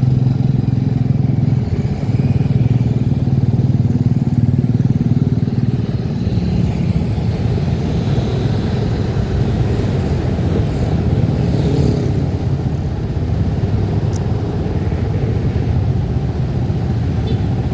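A vehicle engine running steadily on the move, a low even hum with road and wind noise.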